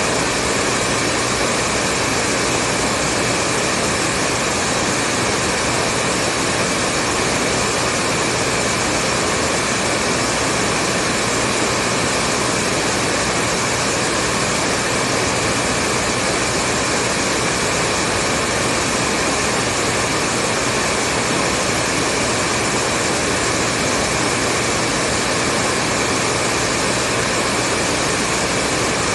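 Hair dryer running continuously at a steady speed: an even rushing of air with a low motor hum and no change in pitch or level.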